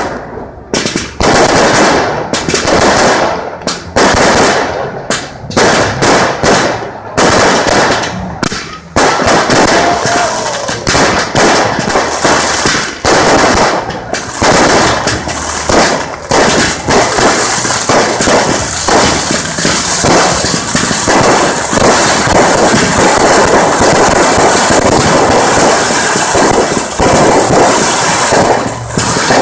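Fireworks display: a rapid run of bangs and crackles, becoming a dense, continuous crackle from about halfway through.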